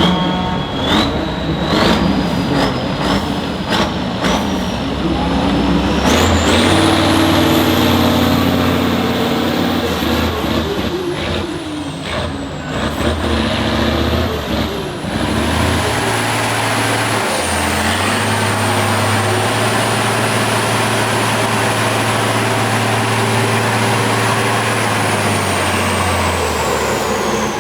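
Heavy off-road truck's diesel engine working hard under load, with a high whine over it that climbs in steps, sweeps higher, and sinks near the end.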